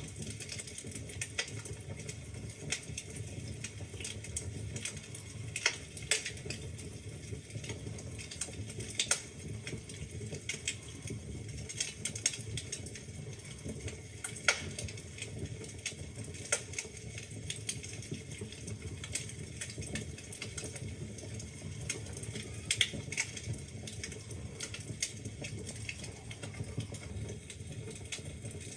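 Wood fire burning in a fireplace, logs crackling with a dense, irregular run of small snaps and a few louder pops over a low steady rumble of the flames.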